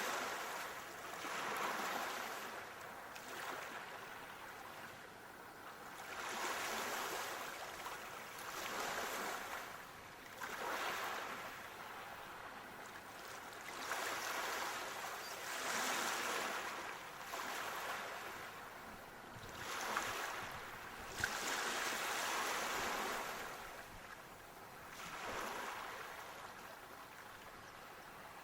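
Sea waves washing onto a shore, each surge of noise swelling and fading every two to three seconds. A couple of brief clicks stand out, the sharper one about three-quarters of the way through.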